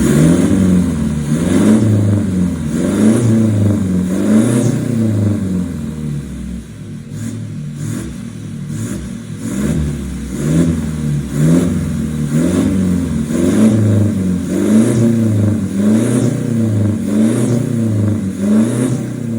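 Toyota Innova's 2GD four-cylinder turbodiesel engine revved through its new full aftermarket exhaust system, the throttle blipped over and over, rising and falling about once every second and a half, as a sound test of the exhaust.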